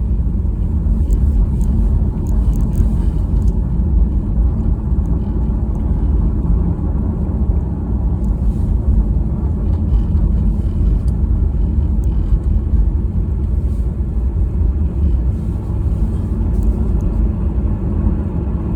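Steady low rumble of a car being driven: engine and road noise heard from inside the cabin.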